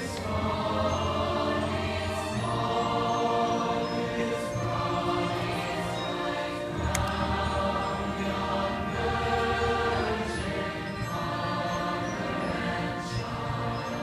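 Massed choir singing a Christmas carol in sustained chords over a slow-moving bass line.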